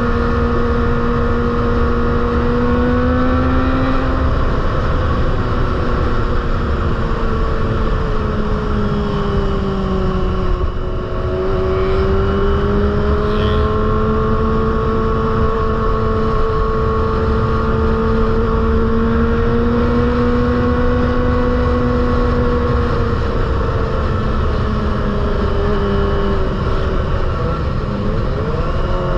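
Kawasaki ZX-25R's 250 cc inline-four running at high revs through an aftermarket Proliner exhaust, a steady high-pitched note. The pitch rises and falls slowly, dips briefly with the level about eleven seconds in, and sweeps up quickly near the end.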